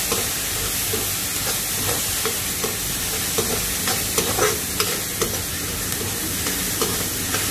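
Chopped shallots sizzling in hot oil in a pan while being stirred, with short scrapes and clicks of the spoon against the pan every second or so. The onions are frying until just glassy.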